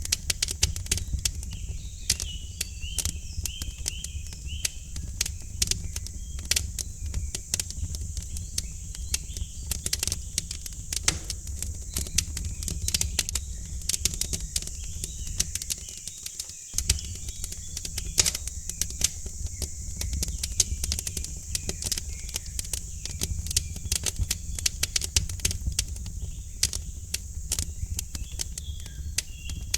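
Wood fire in a fireplace crackling, with dense irregular sharp pops over a steady low rumble. Faint bird chirps come in now and then.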